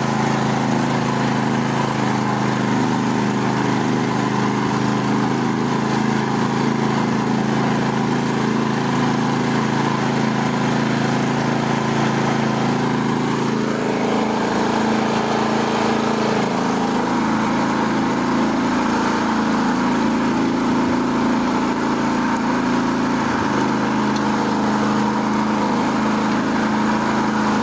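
Small tractor engine running steadily under load while pulling a cultivator through the soil. The engine note shifts slightly about halfway through.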